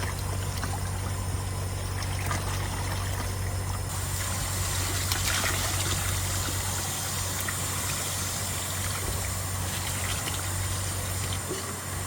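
Dirty water gushing and splashing back out of a kitchen drain line being hydro-jetted, carrying chunks of grease cleared from a clog, over the steady low hum of the jetter. The hiss of the water gets brighter about four seconds in.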